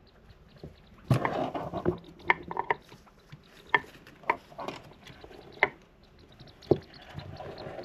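A degu scrabbling at a small wooden ball and knocking it about. A scuffle about a second in is followed by a string of separate sharp wooden clacks, and there is a soft rustle near the end.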